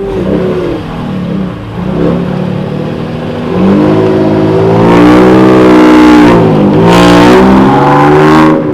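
A car engine revving hard under acceleration, loud, its pitch climbing, dropping briefly about two-thirds of the way through, then climbing again before cutting off near the end.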